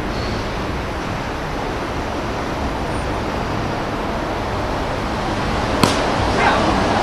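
Steady outdoor wind and traffic noise, with one sharp crack of a baseball impact about six seconds in, followed briefly by a voice.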